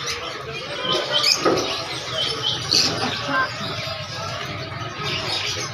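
A dense chorus of small caged birds chirping all at once, many short high calls overlapping without pause.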